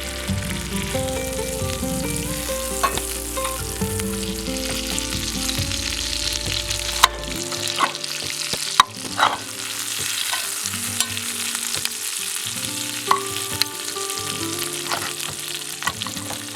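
Cornish game hen frying in a cast iron skillet: a steady sizzle, with a few sharp clicks near the middle.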